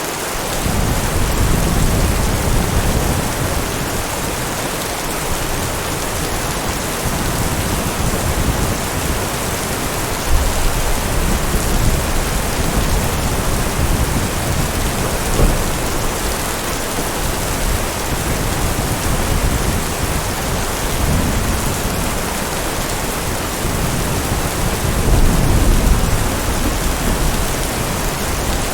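Heavy rain falling steadily, with low rolls of thunder rumbling under it in waves, swelling near the start and again near the end.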